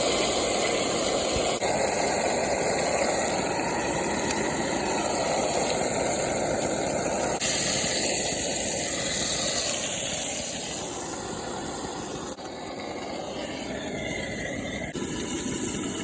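Diced onion and celery sizzling in hot oil and garlic in a cooking pot, a steady hiss that changes level abruptly a few times.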